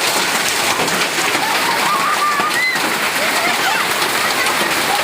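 Heavy storm downpour beating steadily on surfaces, a loud, dense hiss. Faint wavering voices rise over it in the middle.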